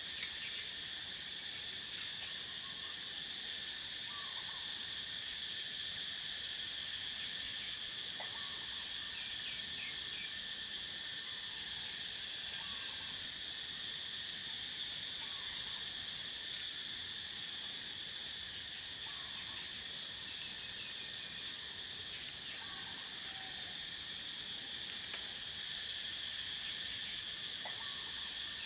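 Steady chorus of insects trilling at two or three fixed pitches, with short faint chirps scattered through it and a few faint clicks.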